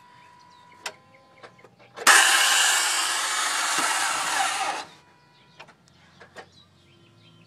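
2004 Toyota Sienna LE's faulty starter motor whirring loudly for just under three seconds and then cutting off suddenly, a bad starter sound. A small click comes about a second earlier.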